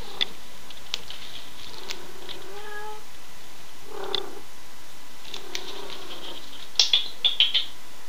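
Domestic cat making a few short meows while playing, one of them rising in pitch. Sharp clicks are scattered through it, with a quick run of five louder clicks near the end.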